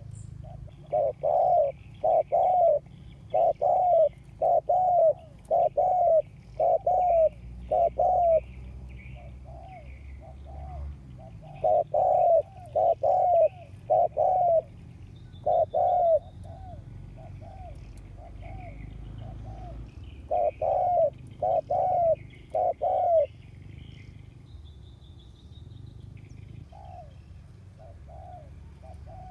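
A spotted dove (cu gáy) cooing loudly in repeated phrases of several low notes, with softer coos in the pauses between phrases. These are the dove's territorial calls, the kind used as a decoy call to provoke wild doves. Small birds chirp faintly behind it.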